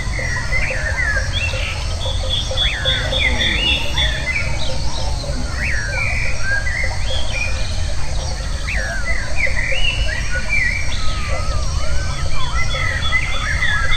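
Many birds chirping and whistling in short rising and falling calls, with a rapidly repeated high note near the start, over a steady low rumble.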